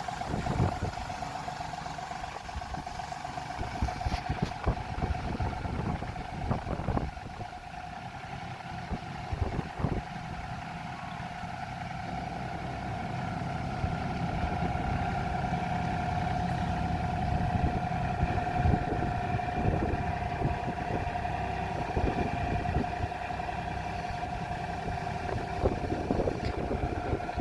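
John Deere 3032E compact tractor's three-cylinder diesel engine running at a steady speed while it pulls a potato hiller along the rows, with a few thumps in the first ten seconds.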